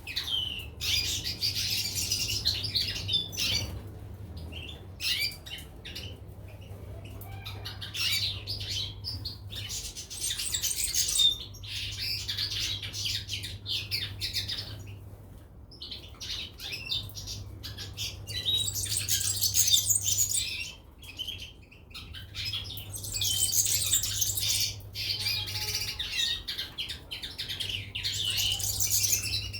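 Small caged songbirds, goldfinches and canaries, chirping and twittering in repeated bouts of rapid high song with short pauses between them. A steady low hum runs underneath.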